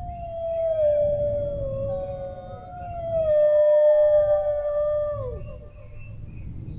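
Dogs howling in long, drawn-out notes that slowly fall in pitch, with a second howl overlapping the first. The howling swells, then drops away about five seconds in, over a steady low background rumble.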